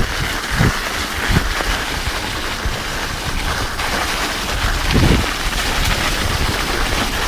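Mountain bike rolling over an icy trail on studded tyres: a steady rush of tyre and wind noise on the microphone, with a few low thumps as the bike hits bumps.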